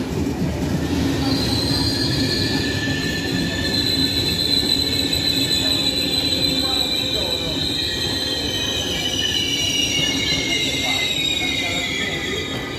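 Regional train of double-deck Vivalto coaches rolling slowly past the platform, with a low rumble and high wheel squeal. The squeal sets in about a second in and sinks slowly in pitch toward the end.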